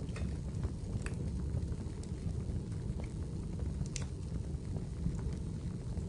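Wood fire burning in a fireplace: scattered sharp crackles and pops over a steady low background.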